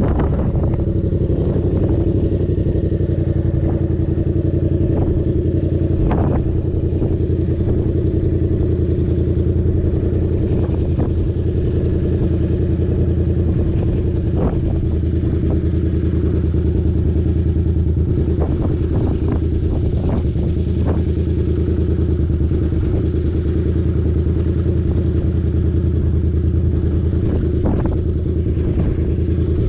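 Yamaha MT-07's 689 cc parallel-twin engine running at a steady engine speed, with scattered short clicks.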